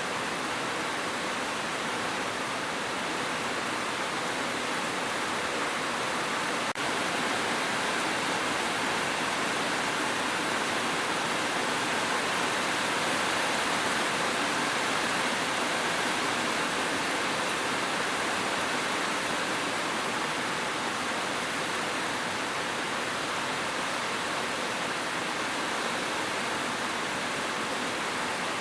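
Steady rain, an even rushing hiss with no breaks, and a single faint click about seven seconds in.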